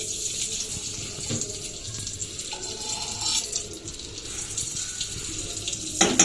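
Ghee heating in a pan on the stove, a steady sizzling hiss, with a brief louder noise near the end.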